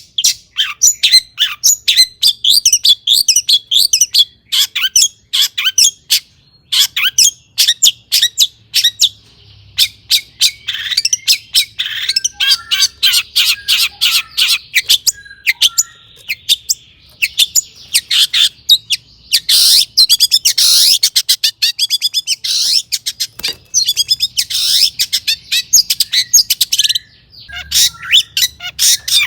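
Long-tailed shrike singing a fast, varied stream of sharp chirps and mimicked calls, broken by harsh, scratchy passages.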